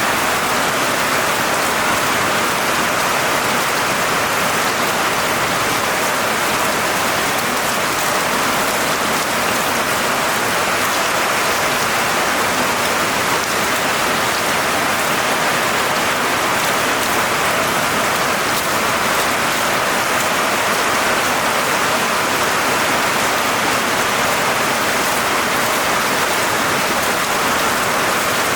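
Steady rain falling: an even, unbroken hiss with no thunder and no change in strength.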